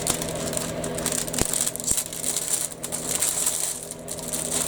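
Plastic kit parts and their plastic bags being handled, rustling and crinkling, with a couple of small sharp clicks, over a steady low hum.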